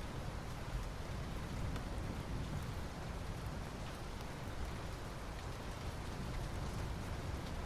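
Soft rain falling steadily on asphalt, an even hiss with faint scattered drop ticks.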